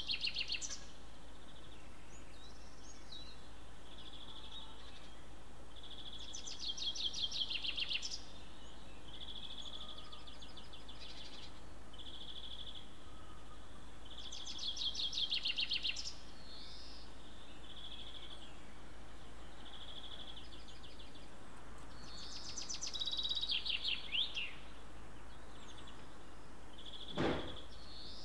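A songbird singing a short, high trilled phrase about every eight seconds, four times, with short single high notes in between, over a steady low background hum. A single sharp knock sounds near the end.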